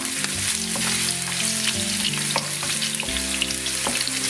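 Diced carrot sizzling in hot olive oil in a non-stick frying pan while a wooden spoon stirs it. The frying makes a steady hiss with scattered small pops and spits.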